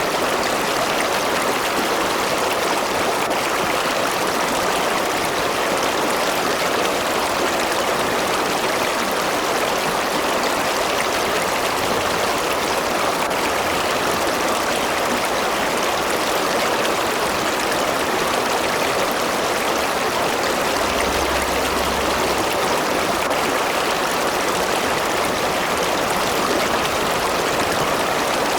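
A river or stream rushing and splashing over rocks, a steady even flow.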